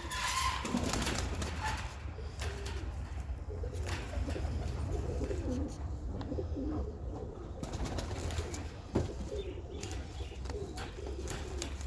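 Double-crested domestic pigeons cooing, a run of wavering low coos over a steady low rumble, with one sharp click about nine seconds in.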